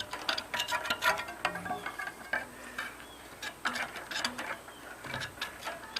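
Irregular clicks and short scrapes of hand work on a greasy bicycle rear hub, as caked-on grease is scraped off it.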